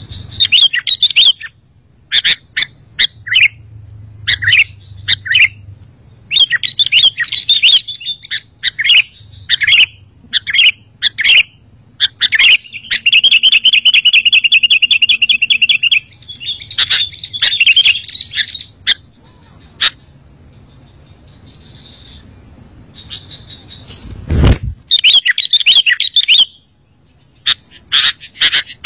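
Sooty-headed bulbul (kutilang) calling: bursts of short, loud chirping phrases, with one long rapid trill about twelve seconds in. A single thump sounds about three-quarters of the way through, and a faint steady high whine runs underneath.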